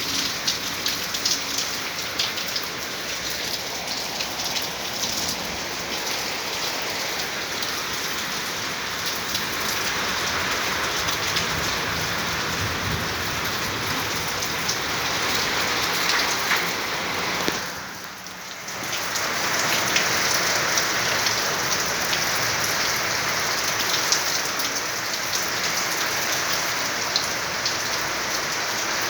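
Heavy rain falling in a strong storm: a steady hiss with the patter of many drops striking surfaces, briefly quieter about two-thirds of the way through.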